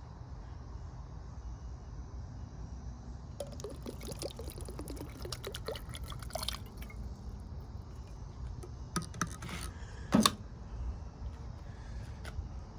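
Water poured into a pan of potatoes and butter, splashing and gurgling for about three seconds, followed by a few clicks and a sharp knock about ten seconds in.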